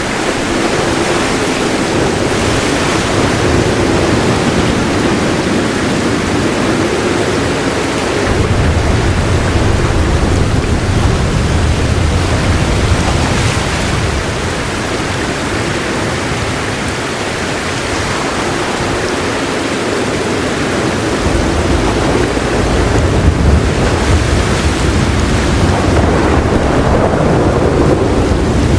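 Heavy rain falling in a steady hiss, with soft rolls of thunder rumbling low underneath, swelling in twice: about a third of the way through and again from about two-thirds through.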